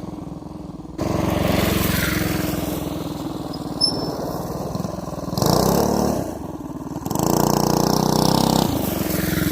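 Coleman CT200-U mini bike's single-cylinder engine running on the move, opened up sharply about a second in and then rising and falling through two more bursts of throttle. A short sharp click a little before the middle.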